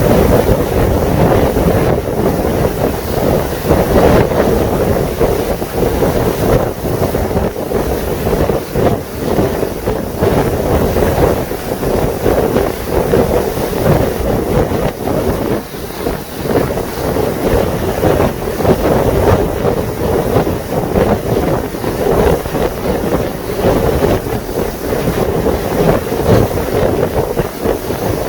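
Wind buffeting the microphone aboard a moving lake passenger boat, over a steady drone and water noise.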